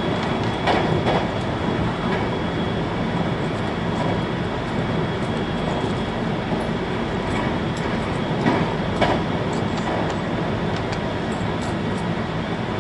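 Interior running noise of a 521 series electric train: a steady rumble of wheels on rail with a few short knocks, a pair about a second in and another pair past the middle.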